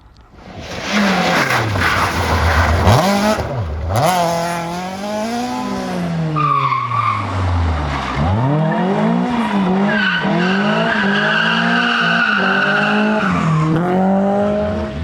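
Rally car driven hard: the engine revs up and down through several gear changes, and the tyres squeal for a few seconds in the second half. The sound comes in suddenly about half a second in.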